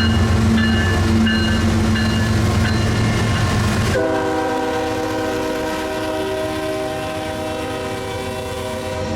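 Diesel locomotive engines rumbling with short, broken horn sounds over them. About four seconds in, the sound cuts abruptly to one long, steady train horn.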